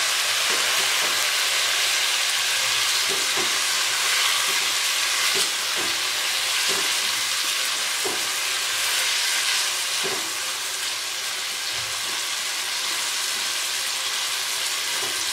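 Chicken, sliced onion and chopped tomato frying in hot oil in a nonstick kadhai: a steady sizzle, with the soft scrapes of a silicone spatula stirring through it about once a second.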